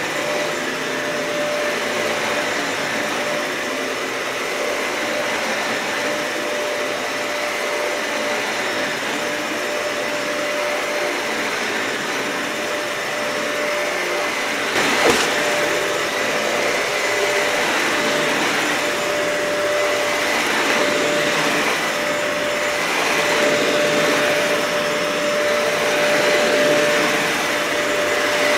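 Dyson vacuum cleaner running steadily over thick, matted carpet, its motor holding a constant whine, with one sharp click about halfway through.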